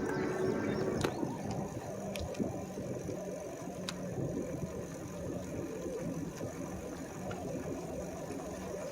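E-bike riding along a paved road: steady tyre and road rumble with a low electric motor hum, and a few sharp clicks and rattles from the bike.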